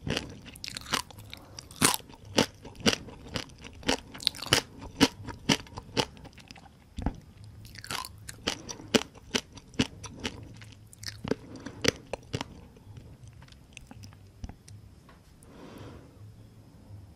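Close-miked chewing of crispy fried whole rice-field crabs: a rapid series of loud, sharp shell crunches that grows sparser and softer over the last few seconds.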